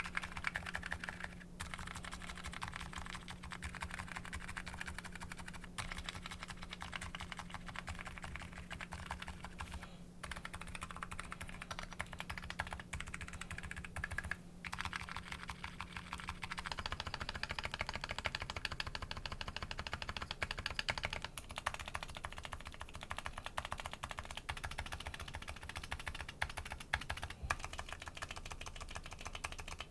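Continuous typing on a Nuxros Kraze custom keyboard with MetaKeebs MetaPulse electrocapacitive switches: a dense, unbroken stream of keystrokes. About 17 seconds in the sound changes, a low hum drops out and the keystrokes turn brighter.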